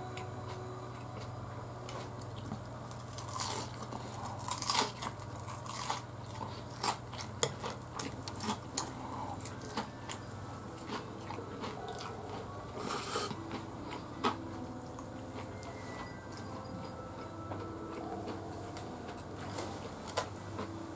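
Close-up eating sounds: a person biting into and chewing crispy deep-fried food with rice. The sharp crunches of the batter come thickest a few seconds in and thin out after the middle.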